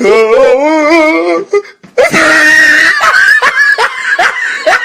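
Meme sound-effect clips of a human voice: a wailing cry with a wobbling pitch, a brief break, then a loud drawn-out scream, followed by rapid short rising yelps.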